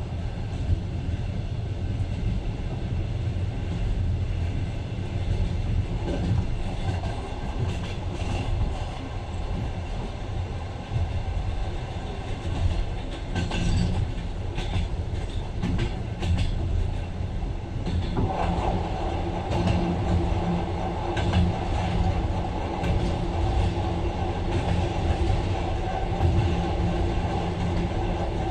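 Passenger train running along the track, heard from inside the carriage: a steady low rumble with a few wheel clicks over the rail joints. About two-thirds of the way through, a steady mid-pitched hum joins in.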